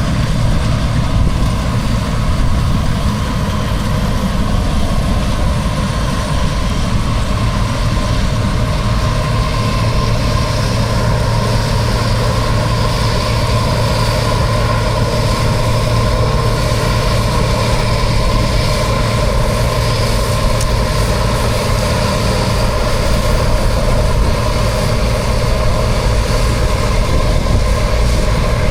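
Bizon Super Z056/5 combine harvester's diesel engine running steadily with a deep, even drone. A little more high-pitched noise joins from about ten seconds in.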